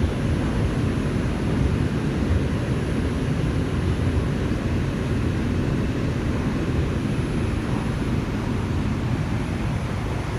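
Inside an R142 subway car running at speed: a steady low rumble of wheels on the rails, with running noise from the car.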